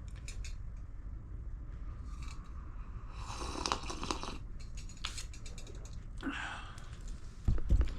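Gear being handled: rustling and a run of small clicks over a low steady rumble, with a dull thump near the end.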